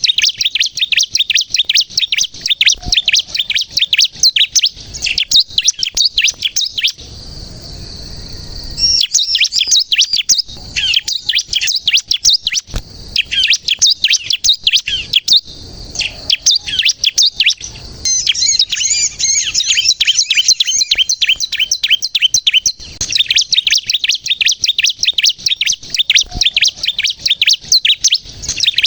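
Bar-winged prinia (ciblek kristal) singing busily: a fast, high run of chirps and trills with a short pause about seven seconds in.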